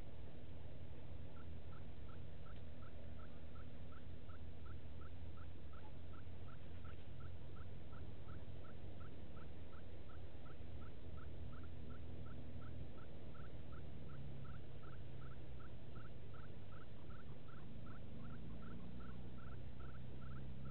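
A bird repeating one short note over and over, about three times a second, starting just over a second in, over a steady low hum.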